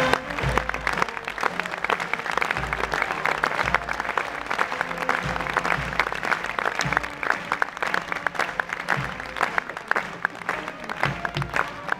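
Crowd applauding, a dense, even clapping that keeps up throughout.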